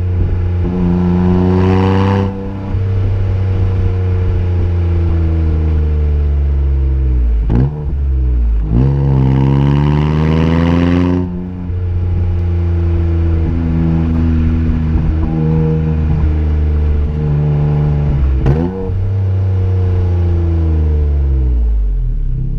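Exhaust note of a Suzuki Alto Works HA36S's 660 cc turbocharged three-cylinder engine through a homemade dual straight-tail muffler, running steadily with a few throttle blips where the pitch rises and falls.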